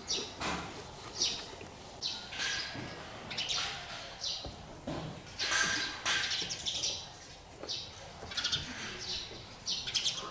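Birds chirping in short, repeated high-pitched calls.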